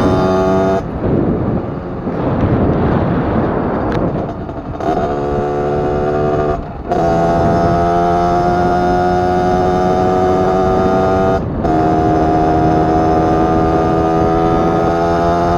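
Beta RR 50's 50cc two-stroke engine with an Arrow exhaust, running at high revs. For the first few seconds the note is rough and uneven. After that come long, steady, high-pitched runs, broken by two short cuts about seven and eleven and a half seconds in.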